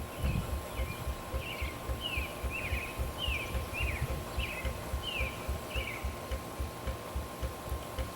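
5/8 scale Wood Brothers steam traction engine running, its exhaust giving a steady low chuff about three times a second. A bird sings a run of short falling notes over it for the first six seconds.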